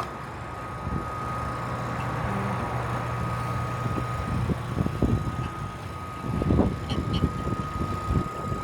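Jet JDP-15MF drill press motor running with a steady high whine. Low knocks and bumps come in over the second half.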